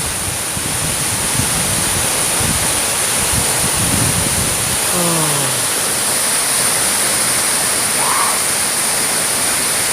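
Steady loud rush of the Rimbi waterfall, with low wind buffeting on the microphone in the first half. A short falling voice sound is heard about five seconds in.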